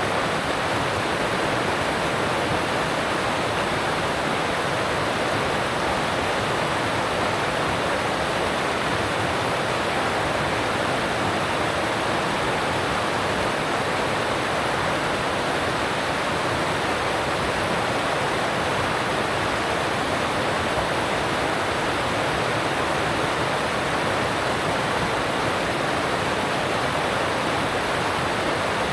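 Alpine mountain stream rushing over rocks: a steady, unbroken rush of water.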